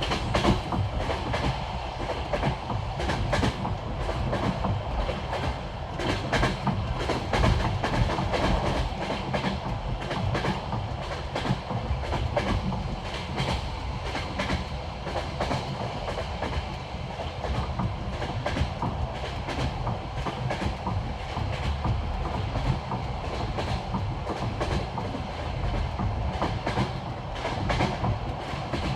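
Passenger train wheels clattering over the rail joints of old-style jointed track: a steady low rumble with repeated clicks as each wheelset crosses a joint.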